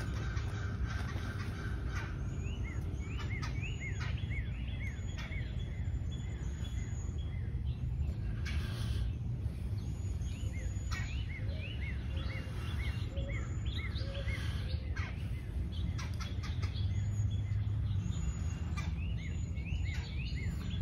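Songbirds chirping in short runs of quick, repeated arched calls, over a steady low rumble.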